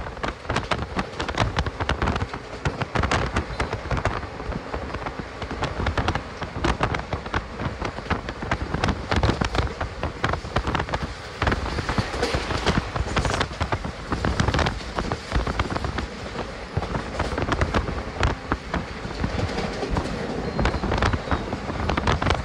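A moving passenger train heard from on board: a steady rumble and rattle of the wheels on the rails, broken by many sharp irregular clicks and crackles.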